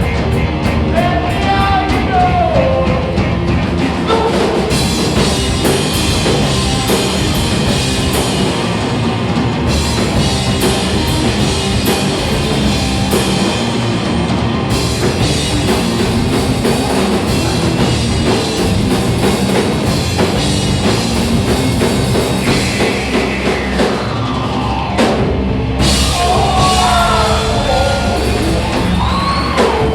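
A three-piece rock band playing loud and dense: distorted electric guitar, bass guitar and drum kit, with pitch-bending lead lines near the start and again near the end.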